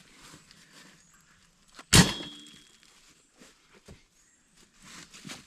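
A firewood log drops onto a load for hauling, making one heavy thunk about two seconds in with a brief ringing tail. Quieter shuffling and small knocks come before and after it.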